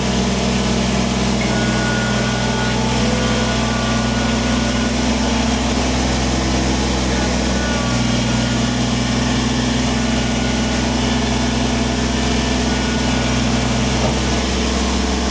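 Kubota tractor's diesel engine running at a steady speed.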